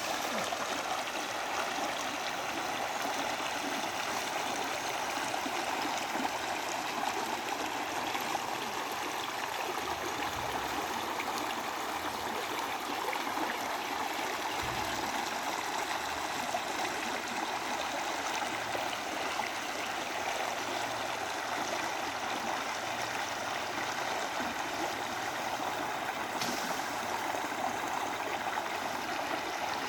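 Waterfall water rushing and splashing steadily, an even, unbroken sound.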